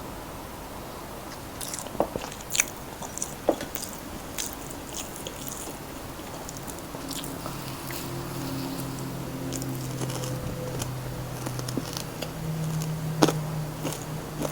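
Crunchy bites into crispy fried chicken, with sharp crackles of breaking coating at the start and again near the end, and chewing in between. A steady low hum comes in about halfway through.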